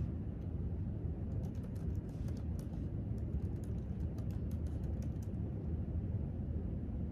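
Typing on a computer keyboard: a quick run of key clicks for about four seconds, starting a little over a second in, over a steady low background rumble.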